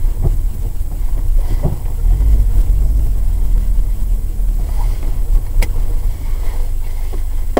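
Car rolling slowly, a steady low engine and road rumble heard from inside the cabin, with a sharp click about five and a half seconds in.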